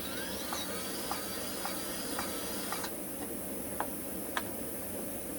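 Battery-powered electric grease gun running with its trigger held, pumping grease into a zerk fitting: a faint motor whine with a regular click about twice a second. It stops about three seconds in, followed by two single clicks.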